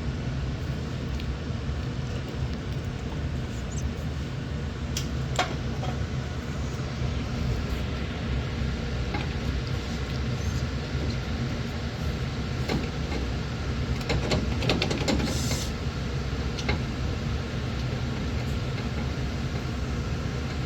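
A steady low mechanical hum throughout, with a few brief clicks and knocks about five seconds in and again around thirteen to fifteen seconds in.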